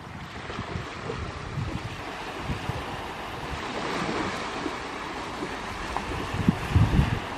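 Sea waves breaking and washing up a sandy beach, the surf swelling to a peak about halfway through. Wind buffets the microphone in low gusts near the end.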